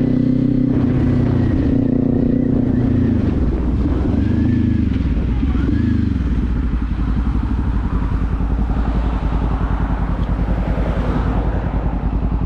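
Kawasaki Z400's parallel-twin engine running under the rider: a steady note at first, then the revs drop and rise twice in the middle, and it settles to low revs with an even pulsing beat.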